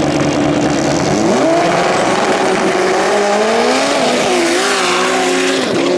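Drag-racing car's engine accelerating hard, its pitch climbing in steps with brief drops between them.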